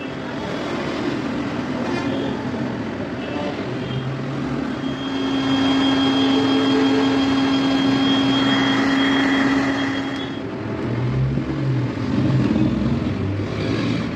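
Road traffic noise with a long, steady horn-like note from about five to ten seconds in.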